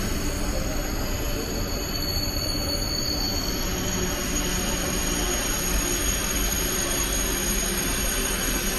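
Train running on rails: a steady rumble and hiss, with a thin high squeal from about two to three and a half seconds in.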